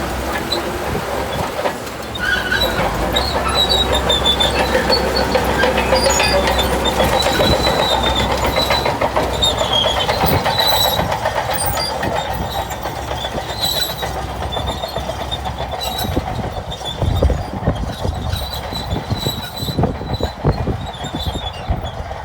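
Shantui crawler bulldozer working, its diesel engine running under the squeal and clank of its steel tracks, with high squeals that come and go.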